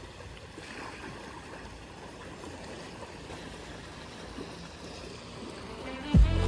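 Steady wash of small waves on a beach, an even hiss of water. Music with a beat cuts in near the end.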